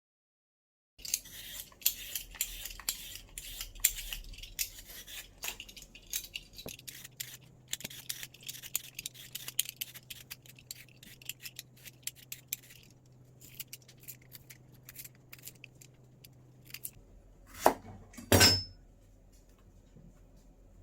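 Kitchen food-prep handling: a rapid run of small crisp clicks and scrapes of utensils and ingredients, thinning out partway through, then two louder knocks close together near the end.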